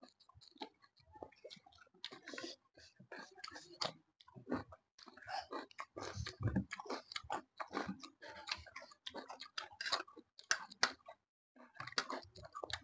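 People chewing food close to a microphone, an irregular run of short mouth smacks and clicks.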